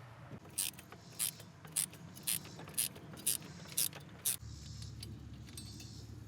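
Hand ratchet wrench clicking on its backstrokes while a bolt is undone, eight clicks about every half second. A steady low hum follows for the last couple of seconds.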